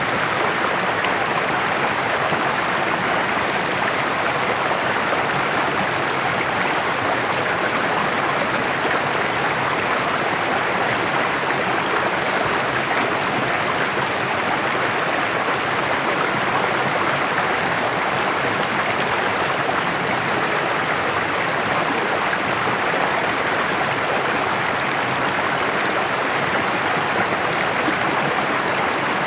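Shallow mountain creek babbling steadily over rocks, an even, unbroken rush of water.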